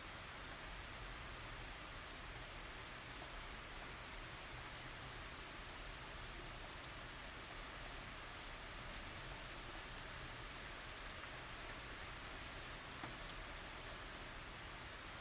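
Steady tropical rain falling, a constant hiss with scattered small drop ticks, no thunder.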